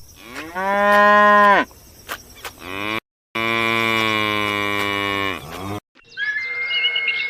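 A cow mooing twice: two long calls, each dropping in pitch as it ends. Birds start chirping near the end.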